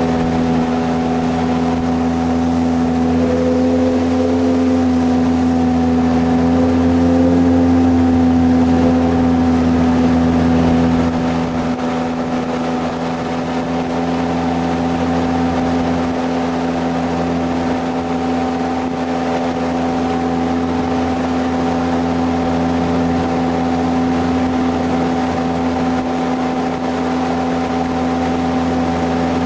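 Jet boat's engine running steadily under way, a little louder for a few seconds before easing off about eleven seconds in.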